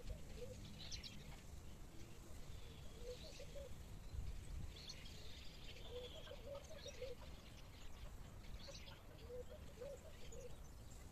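Birdsong: a low warbling phrase repeated about every three seconds, with thin high chirps from other birds in between, over a low rumble.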